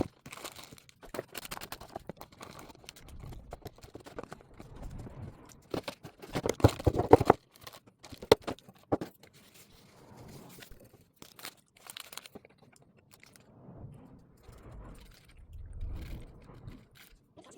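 Irregular clicks, knocks and crinkling of objects being handled, loudest in a dense cluster of scrapes and clatter about seven seconds in, then fainter and sparser.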